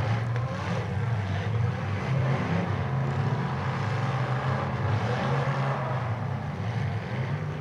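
Demolition derby cars' engines running and revving as they push and ram each other, a steady low drone that rises and falls.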